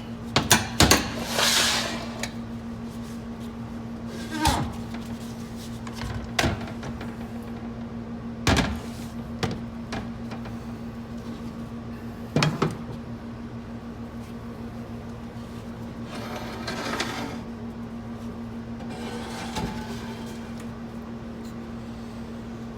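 Metal transmission parts being handled during a B clutch pack removal: scattered sharp knocks and clicks, with a few brief scraping, sliding sounds, over a steady low hum.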